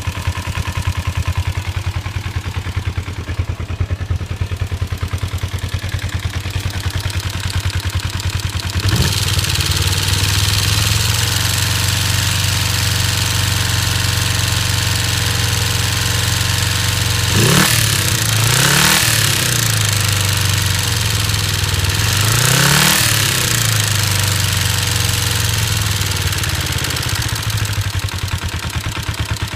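1989 Kawasaki Ninja 250 parallel-twin engine idling, with a few quick blips of the throttle about two-thirds of the way through. The owner calls the engine noises strange. A valve inspection found 7 of its 8 valve clearances out of spec, and the cam chain tensioner has been cleaned.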